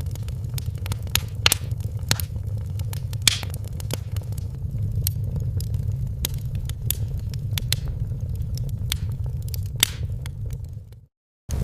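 Wood fire crackling in a fireplace: irregular sharp pops and snaps over a steady low rumble of flames. Near the end it fades out to a moment of silence, then comes straight back.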